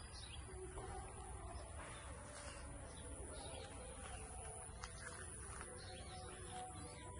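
Faint bird calls, short scattered chirps, over a steady low background hum.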